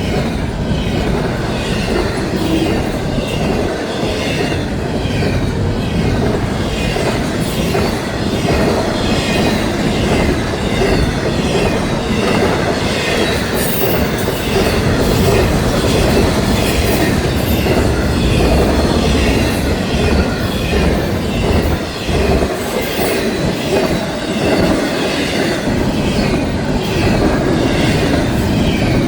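Cars of a Florida East Coast Railway train rolling steadily past: a continuous loud rumble of steel wheels on the rails.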